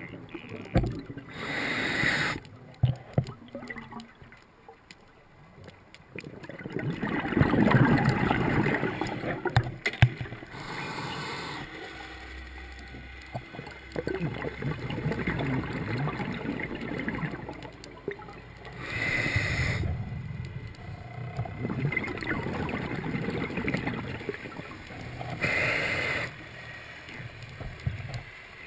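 Scuba diver breathing through a regulator underwater: several short hisses of inhaled air, each followed by a longer spell of rough bubbling as the exhaled air escapes.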